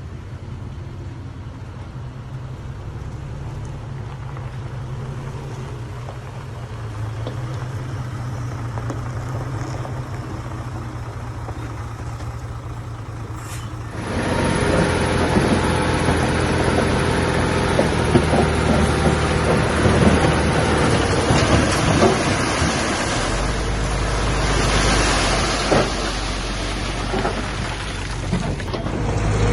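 Heavy diesel earthmoving machinery running with a steady low engine note. About halfway through, the sound jumps suddenly louder and rougher, with a noisy clatter over the engine.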